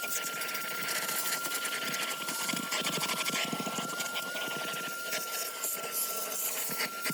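Vacuum cleaner running steadily: a constant high motor whine over a rushing hiss, with many short scratchy crackles as it works.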